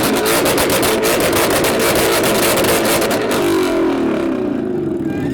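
Ford Mustang V8 revved hard and held at high revs with a rapid crackle for about three seconds, then the revs fall away and settle lower near the end.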